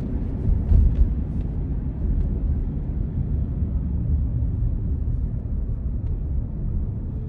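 Steady low rumble of a Toyota car heard from inside the cabin as it drives, with a brief thump about a second in.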